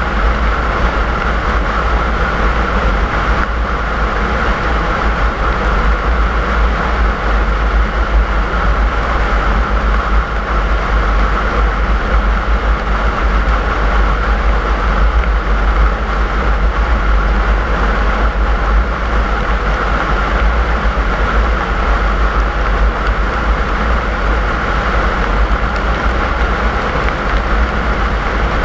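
A car driving steadily: continuous road and engine noise with a heavy low rumble and no change in pace.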